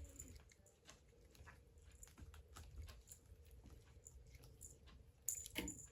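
Faint scattered ticks and light scratches from a cat's claws and paws at play, with a louder brief scuffle near the end.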